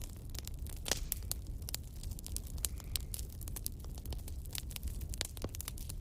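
Wood fire crackling, with irregular sharp pops of varying loudness, several a second, over a steady low rumble.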